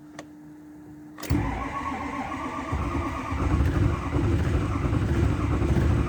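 A 2006 Ford F-250 Super Duty's 6.0 Power Stroke V8 diesel being cranked cold by the starter. The cranking begins about a second in and grows louder a couple of seconds later. The engine almost catches but does not start: a hard cold start.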